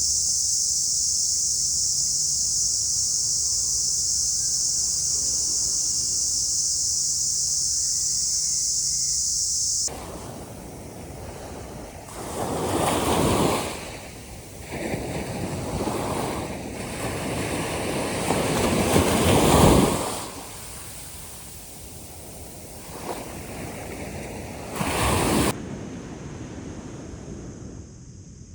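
A steady, high-pitched insect drone, which cuts off abruptly about a third of the way in. It is followed by waves breaking on a shore, each surge swelling and falling back.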